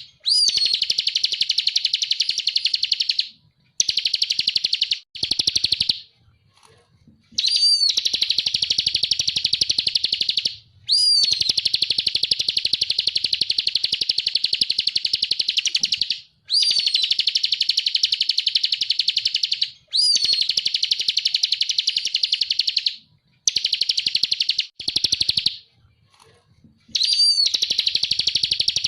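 Ciblek (bar-winged prinia) singing its fast buzzing 'ngebren' trill. Long runs of rapidly repeated high notes, each opening with a sharp upswept note, are broken by short pauses.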